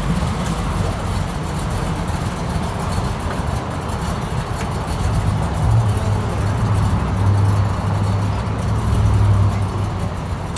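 A car engine running with a deep, low rumble that grows louder about halfway through and eases off near the end.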